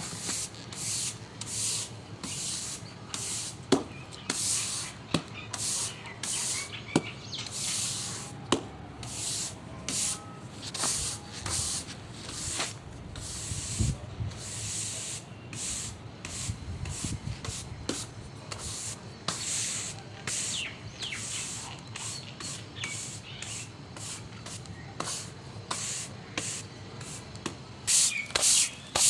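Broom sweeping dust and grit across a floor: a steady run of short swishing strokes, about one to two a second, with an occasional sharp click of grit or the broom.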